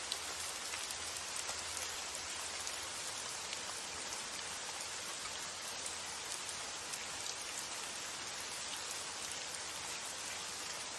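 Steady rain falling without letup, with single drop hits standing out now and then as faint ticks.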